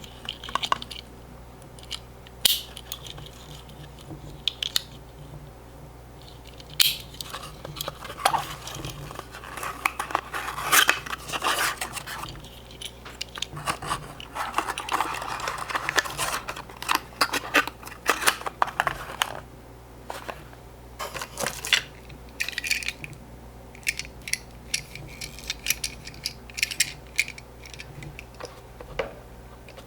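Tomica die-cast toy cars being handled and slid back into their small cardboard boxes: irregular clicks and taps with cardboard scraping and rustling, busiest in the middle, over a faint steady hum.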